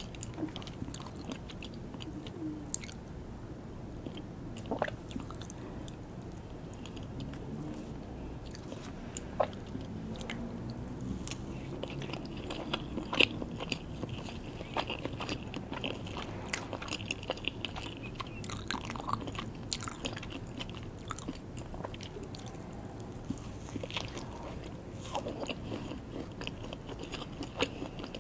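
A person biting and chewing small buttercream and chocolate cakes, with steady wet mouth sounds and many short scattered clicks.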